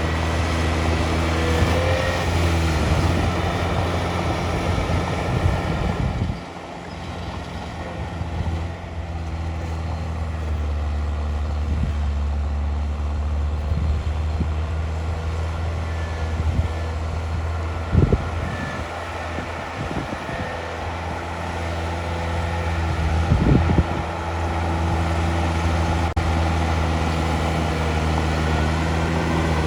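Heavy earthmoving machine's diesel engine running steadily, dropping in level about six seconds in, with a few sharp knocks in the second half.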